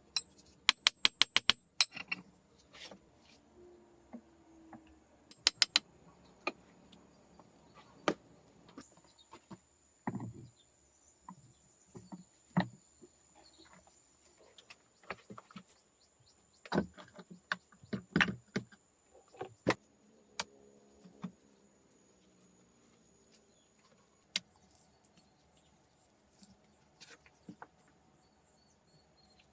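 Irregular sharp clicks and knocks, with a quick run of about eight clicks near the start and a shorter run about five seconds in, over a faint steady high tone.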